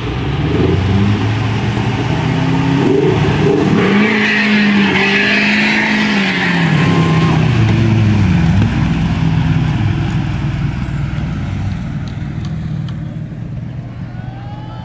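Vehicle engine revving hard under load during a recovery pull, its pitch climbing and falling several times, with a rush of noise in the middle. The engine settles back to a lower, quieter run toward the end.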